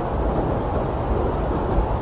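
Blizzard wind blowing hard and steadily: a dense low rush with a deep rumble beneath it and no single gust standing out.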